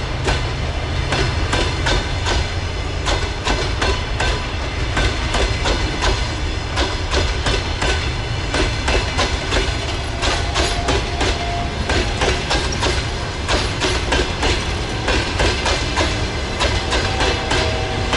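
Passenger train's carriages rolling past at speed, the wheels clacking in quick succession over rail joints over a steady low rumble.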